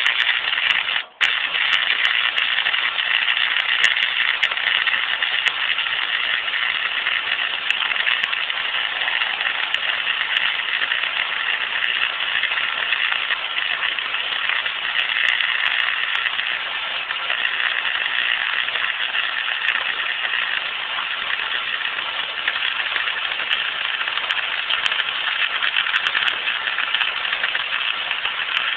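Electric welding arc burning steadily with a continuous crackling hiss, broken off briefly about a second in and then struck again.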